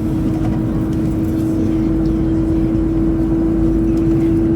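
Chinese high-speed train heard from inside the passenger cabin while running at speed: a steady low rumble with a constant humming tone over it.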